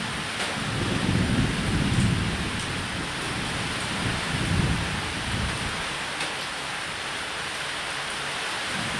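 Steady rain with low rolling thunder: two long rumbles, the first from about a second in, the second around the middle.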